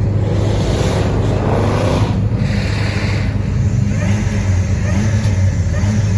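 Car engine revving under a steady low rumble, its pitch climbing and falling.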